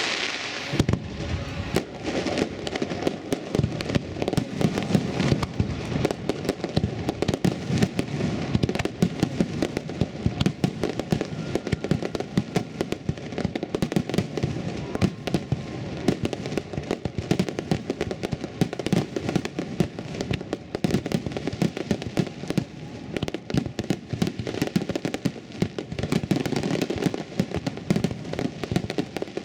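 Fireworks finale: a dense, continuous barrage of shells bursting, with rapid crackling and booming and no pause throughout.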